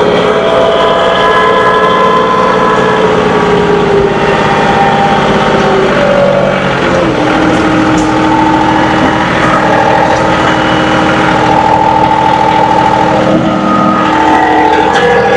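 John Deere 2038R compact tractor's three-cylinder diesel engine running steadily while working, its whining tones drifting slowly up and down in pitch.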